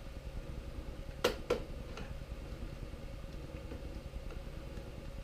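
A knife working at thick plastic zip ties, giving two sharp clicks close together about a second and a half in, over a steady low hum.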